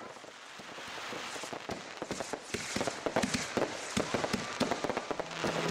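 Aerial fireworks going off: a dense run of sharp pops and crackles from bursting shells that builds from about a second in and stays thick to the end.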